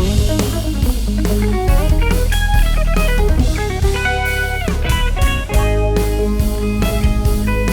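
Electric guitar playing a melodic line over bass and drums, with a falling slide in pitch about four and a half seconds in.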